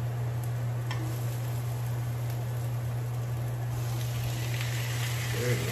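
Chopped garlic and onions sizzling softly in a nonstick frying pan over a steady low hum. A little under four seconds in, raw shrimp are tipped into the pan and the sizzle grows louder.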